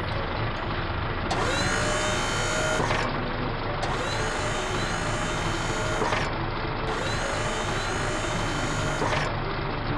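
A motor sound effect, three times, each a whir of about two seconds that rises in pitch and then holds steady, over a low steady background.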